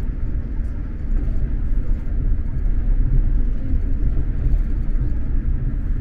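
Steady low rumble of an X2000 electric tilting train running at speed, heard from inside the passenger car.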